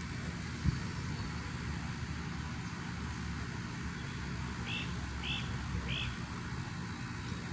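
Steady low industrial grinding rumble, the drone the recordist hears from the Safeway Industrial site. A single thump comes under a second in, and three short high chirps come in quick succession past the middle.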